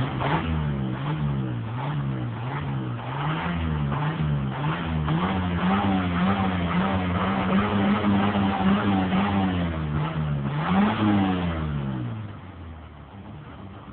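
Ford Maverick's fuel-injected, chipped 4.9-litre six-cylinder engine revved in repeated quick blips, then held at higher revs for a few seconds. It rises once more, then drops back to idle near the end.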